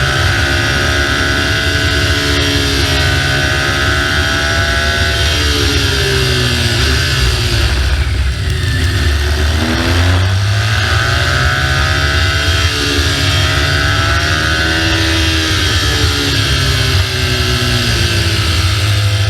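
BMW R1200GS flat-twin engine pulling on the move, with wind and road noise. The engine note drops about seven seconds in and climbs again from about ten seconds in as the bike eases off and then accelerates.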